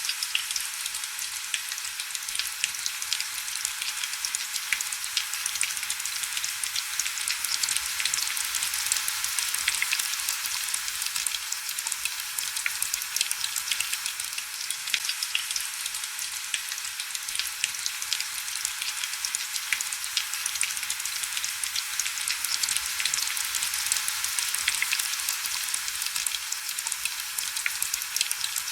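Steady heavy rain on window glass: a dense, even hiss made of countless small drop ticks, sitting high, with almost no low rumble.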